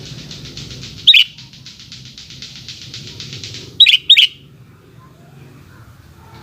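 Sooty-headed bulbul (kutilang) calling: three short, loud notes that slide downward, one about a second in and a quick pair near four seconds. They sound over a fast, even pulsing buzz that cuts off just before the pair.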